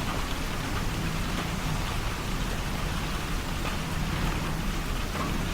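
Steady rain falling, an even patter of drops hitting surfaces close by.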